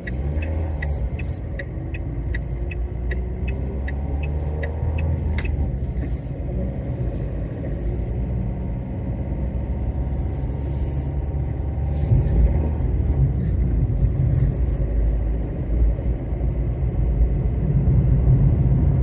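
Car engine and road rumble heard from inside the cabin while driving, a little louder in the second half. For the first five seconds or so a steady ticking of about two ticks a second sounds over it, typical of the turn-signal indicator.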